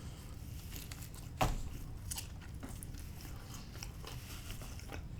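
A person chewing a mouthful of pepperoni and jalapeño pizza close to the microphone. There is a sharp crunchy bite about a second and a half in and a few softer clicks after it.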